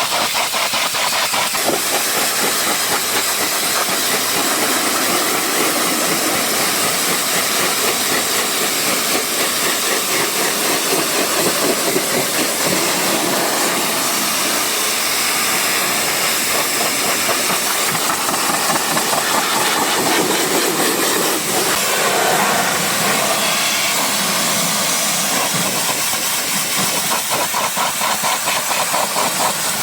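High-pressure spray wand at a car wash, hissing steadily and loudly with a rapid pulsing underneath.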